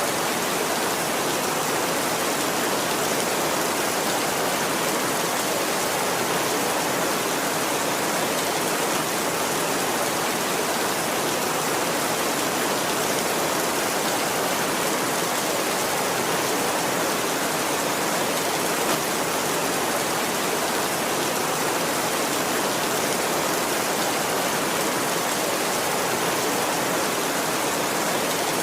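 Steady heavy rain falling, an even hiss with no thunder and no change in level.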